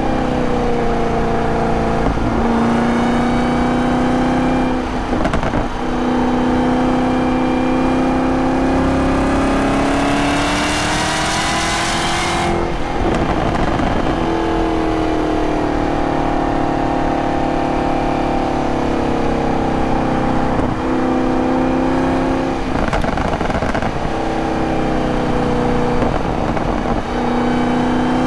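2023 Camaro ZL1's supercharged 6.2-litre V8 pulling hard: the engine note climbs steadily for about ten seconds with a rising hiss on top, then cuts off suddenly as the throttle closes. The pitch then sinks slowly as the car slows, with brief breaks and steps in pitch at several gear changes on the six-speed manual.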